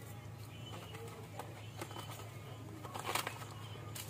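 Faint bird calls over a low steady hum, with a short rustle or scrape about three seconds in as hands work with plants and soil.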